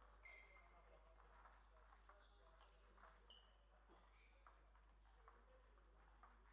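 Faint, irregular clicks of a table tennis ball striking rackets and the table during play, each with a short high ring, over a steady low electrical hum.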